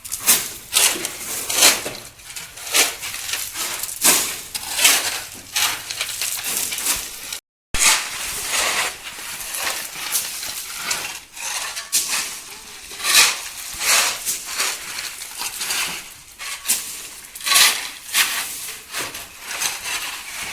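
Loose stone and gravel clattering and rattling in repeated bursts of sharp impacts.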